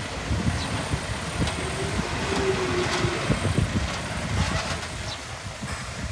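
Diesel engine of heavy earthmoving machinery running, with irregular knocks and clanks and a brief whine about halfway through.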